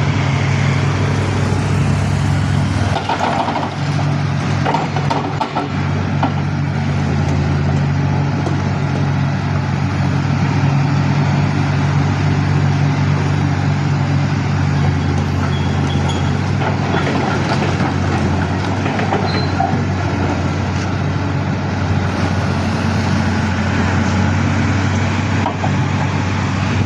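Heavy diesel machinery running steadily under load, with a constant low hum and a few brief clicks and knocks in the first few seconds.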